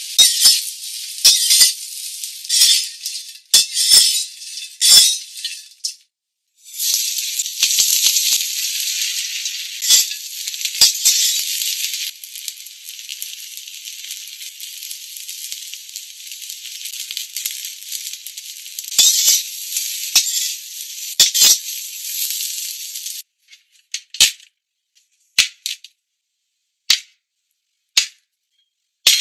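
Cubes of steamed bun frying in oil in a wok: a steady sizzle with sharp spatters and clicks. The sizzle breaks off briefly about six seconds in and stops about 23 seconds in, leaving only a few scattered sharp clicks.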